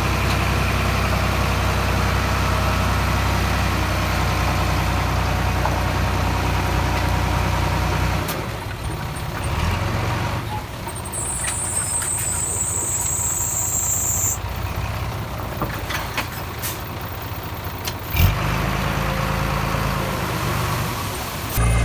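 Heavy diesel engine of earthmoving machinery running steadily. About eight seconds in, the deep engine sound drops away. A high thin tone follows for about three seconds, then a sharp knock, and the engine sound returns.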